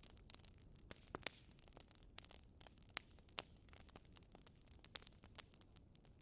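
Wood fire crackling in a fireplace: quiet, irregular snaps and pops over a faint low rumble, with a few sharper pops about three and five seconds in.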